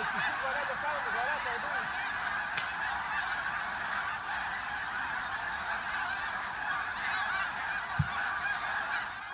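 A large flock of geese calling, many honks overlapping into a steady clamour.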